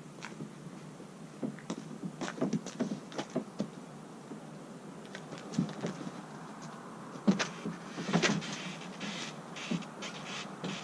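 Irregular light knocks and clatter of a plastic sit-on-top kayak being handled onto a roof-mounted kayak loader, loudest about seven and eight seconds in.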